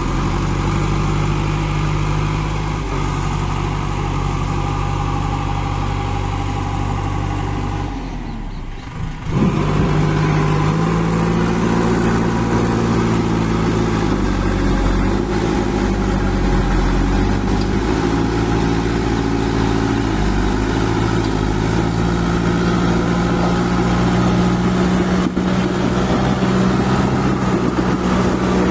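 Kirloskar diesel engine of a JCB 2DX backhoe loader running steadily. It drops out briefly about eight seconds in, then runs on with small changes in pitch.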